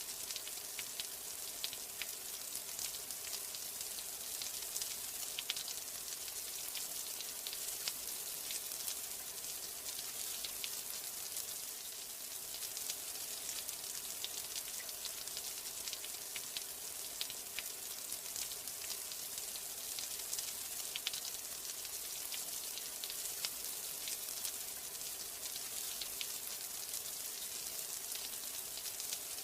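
Steady rain: a dense, even hiss with many small drops ticking.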